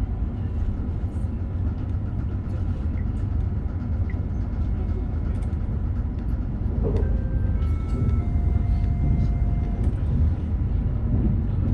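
Meitetsu Panorama Super limited express running, heard from inside the train: a steady low rumble with scattered clicks, and a few brief steady whining tones at different pitches between about seven and ten seconds in.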